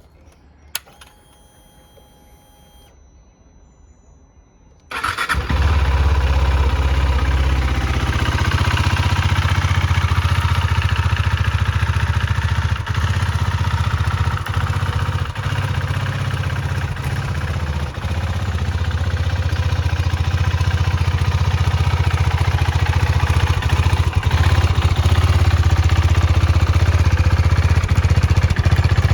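2023 KTM 390 Duke's single-cylinder engine starting about five seconds in and then idling steadily. Before it, a sharp click and a faint steady whine.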